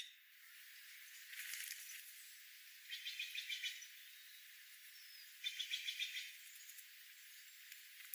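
A bird's rapid chattering call, heard twice about two and a half seconds apart, each a quick run of about eight notes lasting under a second, faint over a light background hiss. A short raspy note comes shortly before the first call.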